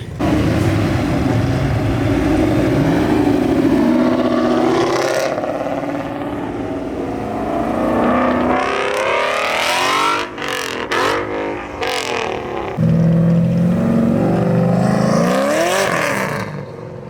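High-performance car engines revving and accelerating as cars pull away one after another. One car sweeps past about ten seconds in, its pitch rising and then falling, and another engine revs up near the end.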